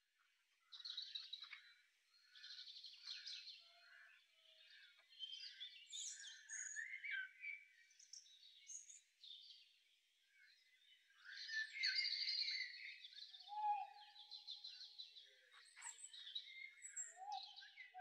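Several birds chirping and trilling at once, in short overlapping calls, with a few lower whistled notes in the second half.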